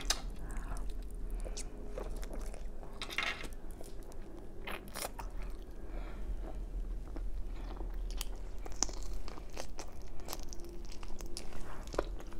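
Close-miked chewing and biting on chicken: soft crunches and wet mouth clicks scattered irregularly throughout.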